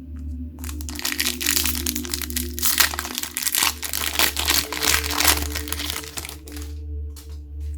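Packaging crinkling and crumpling in the hands for about six seconds, a dense run of crackles, over a soft, steady ambient music drone.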